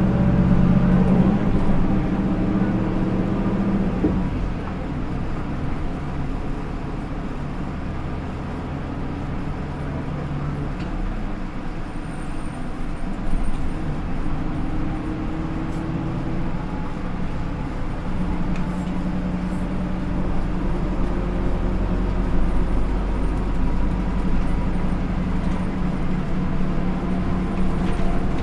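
Running sound of a Hino Rainbow II route bus's Isuzu 4HK1-TCH four-cylinder turbo diesel with Aisin automatic transmission. The engine pulls with rising pitch, then shifts about four seconds in. It runs lighter for a while and comes back under load from about two-thirds of the way through.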